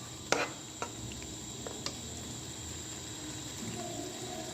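Oil and onion-tomato paste sizzling steadily in a kadhai over a medium flame, with one sharp click about a third of a second in and a few lighter ticks after it.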